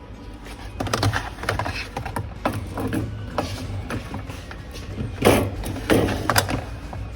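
Clicks, knocks and short rattles of containers and fittings being handled inside a refrigerator, in an irregular run with the loudest rattle about five seconds in.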